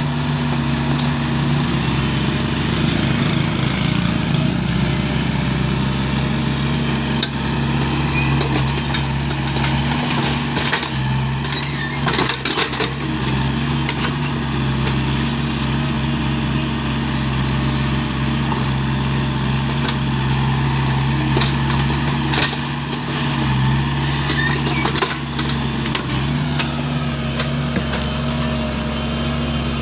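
Hydraulic excavator's diesel engine running steadily under load while digging soil, its pitch dipping briefly a couple of times as it strains. There are a few sharp knocks partway through.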